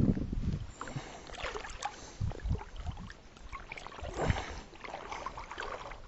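Scattered knocks and clatter of someone moving about and handling gear in a fishing kayak, with a heavier thump at the start and another about four seconds in.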